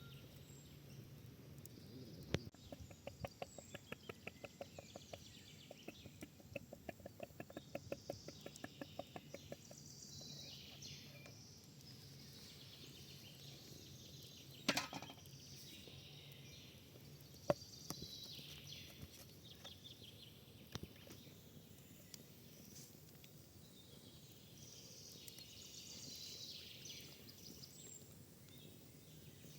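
Faint birds chirping, with a quick run of rhythmic strokes, about four or five a second, for some seven seconds near the start, and a couple of sharp knocks around the middle.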